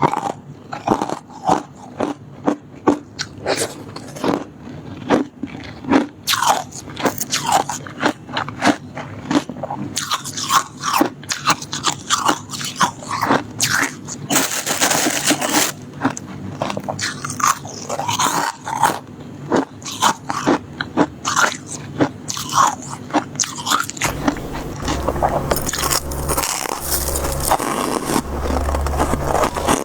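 Close-miked biting and chewing of soft shaved ice, or freezer frost, with many crisp, irregular crunches. A low rumble joins in after about 24 seconds.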